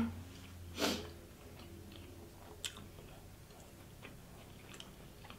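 Close-miked chewing of a toasted sub sandwich: soft, wet mouth clicks, with one brief, louder noise about a second in.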